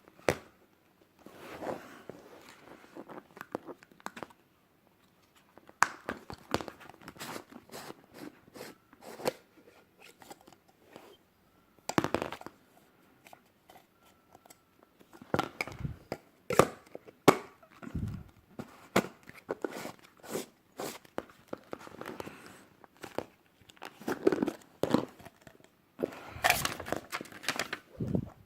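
Shopping packaging handled and opened by hand: irregular crinkling and tearing with sharp clicks and taps, in short bursts.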